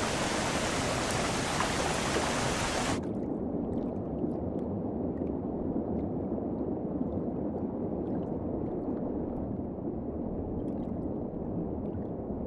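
Rushing stream water, bright and full until about three seconds in, when it changes abruptly to a duller, muffled rush with faint scattered ticks.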